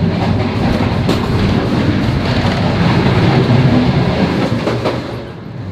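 Passenger train running, heard from inside the carriage: a steady low rumble with a couple of sharp wheel clicks over the rail joints. It eases off slightly near the end.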